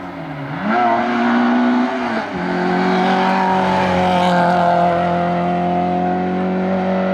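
Rally car engine under full throttle: the revs climb, drop sharply with an upshift about two seconds in, then hold high and steady.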